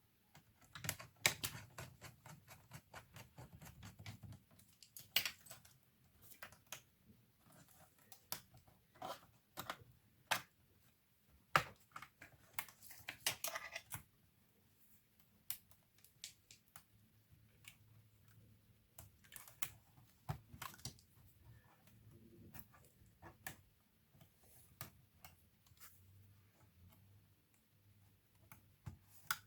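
Irregular small clicks, taps and brief scrapes of tools and plastic and metal parts being handled while working inside an HP 630 laptop, with denser flurries about a second in and again around twelve seconds in.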